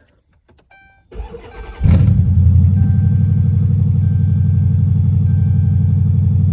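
A brief electronic chime, then the straight-piped Dodge Charger R/T's 5.7 L Hemi V8 cranks for under a second. It catches about two seconds in and settles into a loud, steady idle.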